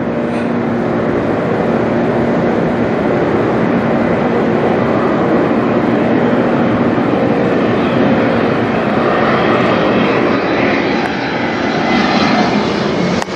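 Bombardier Challenger 300 business jet's twin turbofan engines, a steady loud rushing roar with a hum in it as the jet flies over, growing a little louder over the first few seconds.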